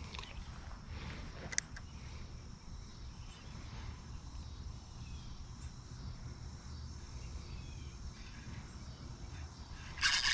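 Quiet outdoor ambience: a steady, faint high insect drone over a low rumble. There is a single click about a second and a half in, and a short burst of louder noise right at the end.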